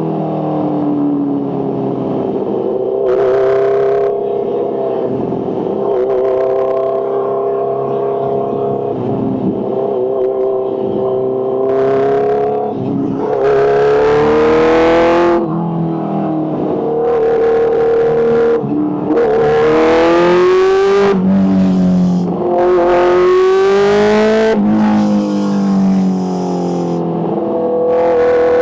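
Kawasaki H2's supercharged inline-four engine revving, its pitch repeatedly rising and then dropping back, with several surges of loud rushing noise as it is opened up hard.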